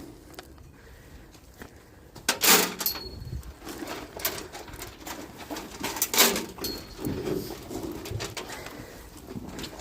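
Feed buckets clanking against the troughs as cattle feed is tipped in, with two loud clatters a few seconds apart and lighter knocks between.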